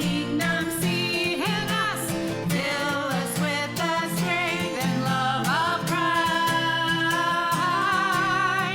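Worship song: a voice singing long, wavering held notes over acoustic guitar and band accompaniment, with one note held for about the last three seconds.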